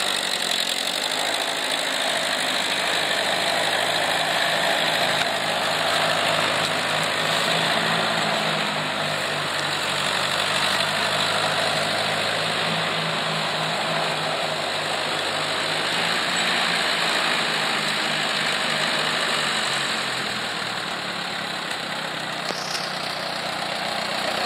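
1952 Ford Red Belly tractor engine idling steadily.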